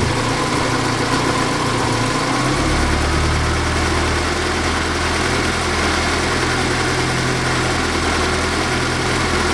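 Saab 90's four-cylinder engine idling steadily on its Stromberg carburettor, its low hum shifting about two and a half seconds in; the mixture has just been adjusted and it is running too lean.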